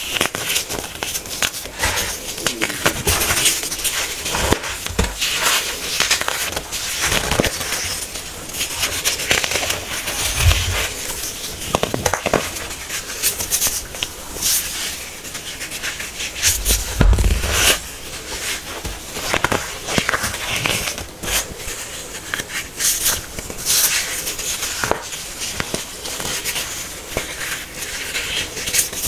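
Hard-packed baking soda being crushed: a dense, irregular run of crunching and crackling with a few duller low thuds, around 10 and 17 seconds in.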